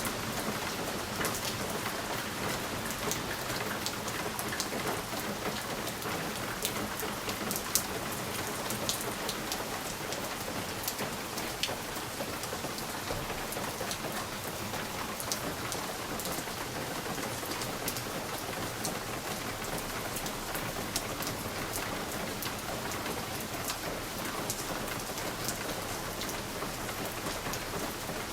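Steady rain falling on a window, with many sharp drop ticks over an even hiss.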